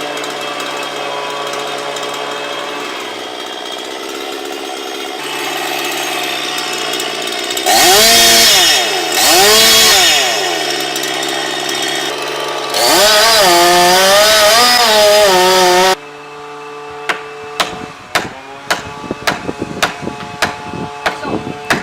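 Two-stroke chainsaw idling, revved twice in short bursts, then held at full throttle for a few seconds. It cuts off suddenly, followed by a run of sharp knocks and cracks.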